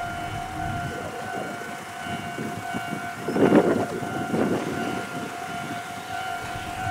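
Ohmi Railway electric trains running through the station, wheels clattering over rail joints, loudest about three and a half seconds in. A repeating high ringing tone sounds throughout.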